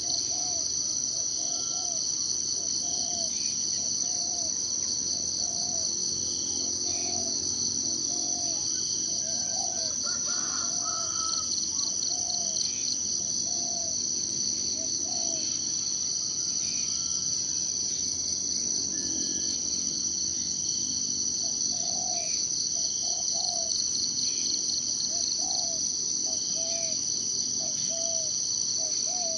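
A steady, high-pitched insect trill runs throughout. Over it, short low calls repeat roughly once a second, with a few faint higher bird chirps scattered among them.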